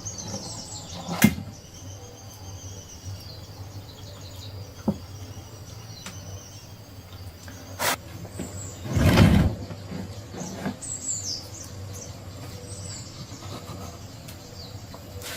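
Birds chirping in short scattered calls over a low background hum, with a few sharp knocks and one louder dull thud about nine seconds in.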